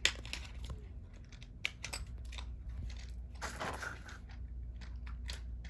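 Hands handling plastic: scattered small clicks and crinkling, with a longer rustle about three and a half seconds in.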